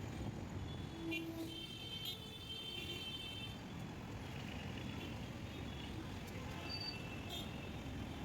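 Road traffic noise: a steady low rumble of vehicles, with brief high-pitched tones between about one and three and a half seconds in.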